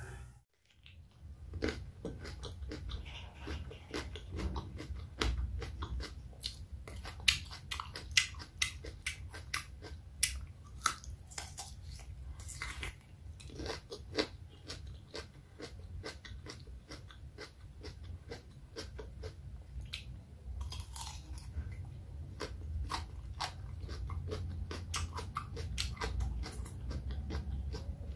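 Close-miked wet mouth sounds of biting and chewing a whole raw cucumber: irregular crisp crunches and sharp wet clicks.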